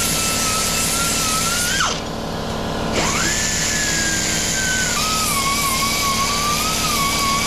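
Belt sander grinding an aluminium-alloy gearbox casting, a steady whine with grinding noise. About two seconds in its pitch drops sharply as the tool slows, then it spins back up about a second later and runs on with a wavering pitch under load.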